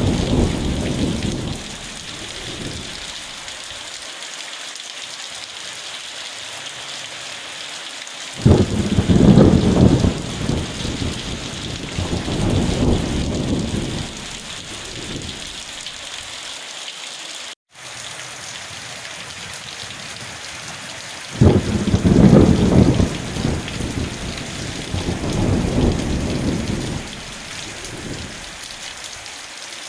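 Steady heavy rain hissing, with rolling thunder: a rumble dying away at the start, then two long rolls that break in suddenly about eight seconds in and again about twenty-one seconds in, each lasting several seconds. The sound cuts out for a split second midway.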